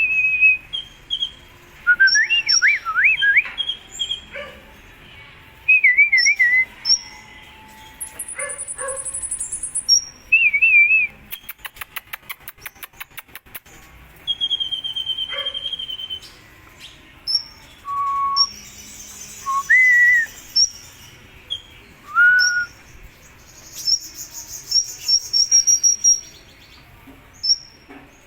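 A sunbird of the kind Indonesian bird-keepers call 'kolibri ninja', singing a string of short, varied whistles and chirps that slide up and down in pitch, with a fast dry clicking rattle about halfway through.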